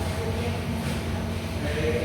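A steady low hum with faint, indistinct voices in the background.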